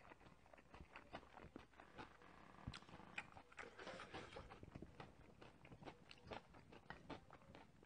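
Faint, close-miked chewing and wet mouth clicks of a man eating bibimbap. Near the end, a wooden spoon scrapes and stirs in a stainless steel bowl.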